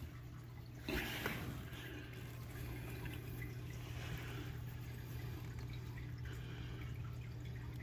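Water running steadily through a converted 300-gallon water tote and its 2-inch drain pipe, trickling and dripping, over a steady low hum, with a short knock about a second in.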